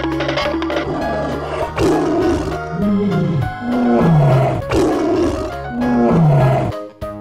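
Cartoon tiger roar sound effect, roaring about four times with the pitch sliding down, over steady background music.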